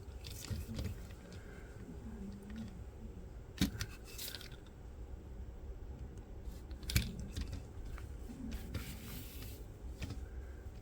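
Handling noises from a toy and its packaging: scattered rustles and scrapes, with a few sharp clicks, one about three and a half seconds in and one about seven seconds in.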